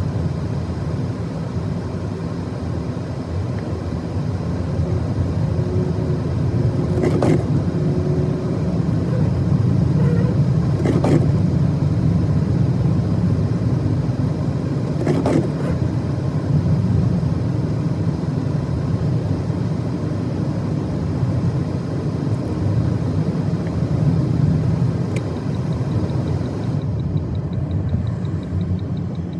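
A car driving on a snow-covered road: a steady low rumble of engine and tyres. A few short knocks come about four seconds apart around the middle.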